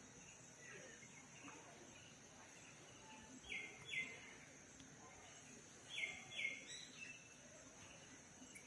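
Bird calling: two pairs of short, sharp high chirps, one pair about three and a half seconds in and another about six seconds in, with faint chirps between, over a steady high-pitched hiss.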